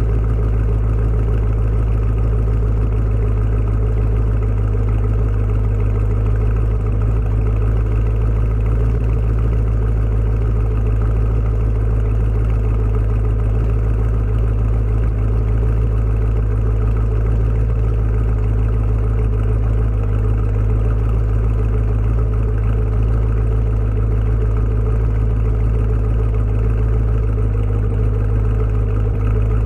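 2015 Camaro Z/28's 7.0-litre LS7 V8 idling steadily through its exhaust after a cold start, with no revs.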